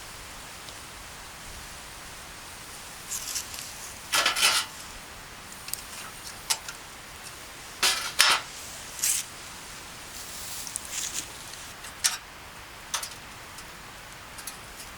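Irregular clinks and clatter of kitchenware being handled, in short bursts: two louder clusters about four and eight seconds in, and smaller knocks around them, over a steady hiss.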